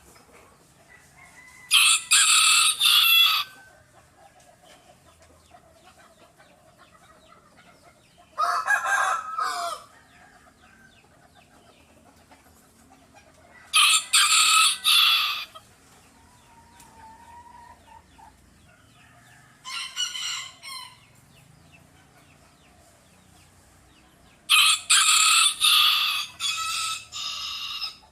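Bantam rooster crowing repeatedly: five crows in all, one every five or six seconds, each lasting one to three seconds, with the second and fourth shorter and lower than the rest.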